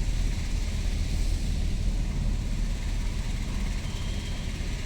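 Steady low rumble of a car driving in traffic, its engine and tyre noise heard from inside the cabin.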